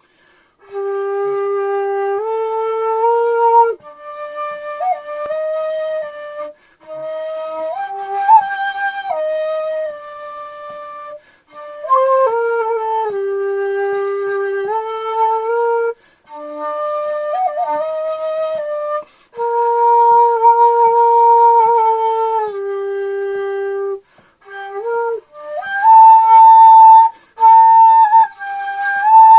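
Homemade seven-hole shakuhachi of hardware-store bamboo playing a slow solo melody in long held notes. The phrases are broken by short pauses for breath, and it climbs to a louder, higher register near the end.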